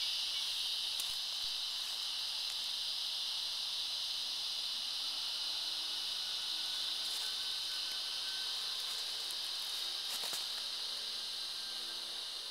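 Steady high-pitched chorus of insects, a continuous shrill buzz, with a few faint clicks.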